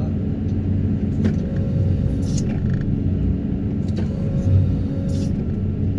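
Excavator's diesel engine running steadily under a low rumble, with a few brief clatters of the machine working.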